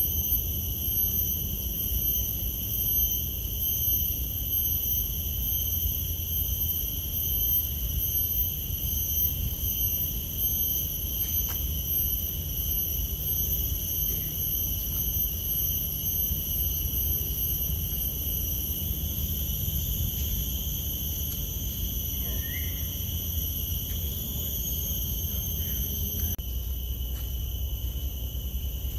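Steady, high-pitched insect drone in tropical parkland, held on one unbroken tone, over a continuous low rumble.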